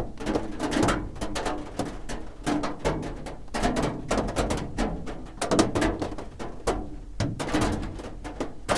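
Raindrops drumming on a roof: a dense, irregular patter of individual drops striking, some louder than others.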